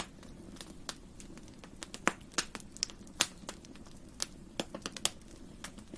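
Wood campfire crackling: irregular sharp pops and snaps over a steady low rush of burning, with a few louder pops about two and three seconds in.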